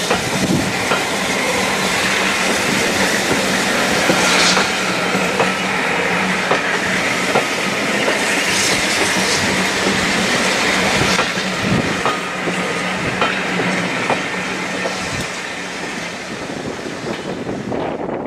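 A train rolling past on the rails: a steady rush of wheel noise with irregular sharp clicks as the wheels run over rail joints, easing slightly near the end.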